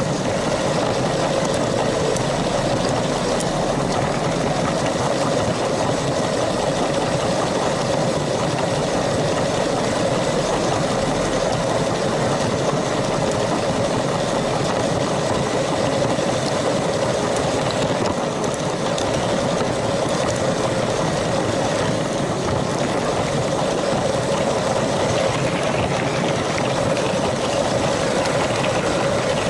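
LEGO train's small electric motor running steadily as the train rolls along the track.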